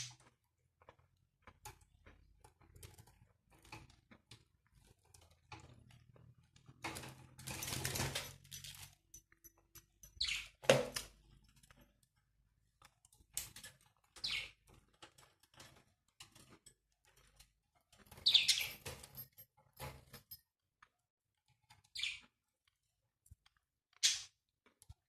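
Pet parrots giving short, sharp calls every few seconds, with a burst of wing flapping near the start and scattered small clicks, as birds squabble over a water dispenser.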